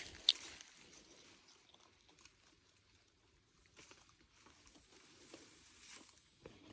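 Lime picking by hand: a sharp snap about a third of a second in, then faint scattered crackling and rustling of leaves and twigs.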